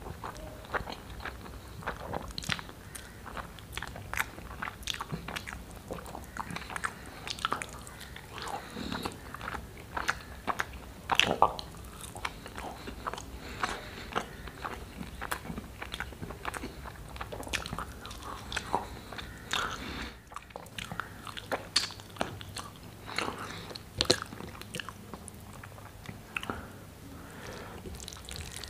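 Close-miked mukbang eating sounds: wet chewing, lip smacks and mouth clicks of someone eating soft rice pulao with chickpea curry by hand, with sticky squelching as the fingers work through the food. The small clicks and smacks come steadily, a few of them sharply louder.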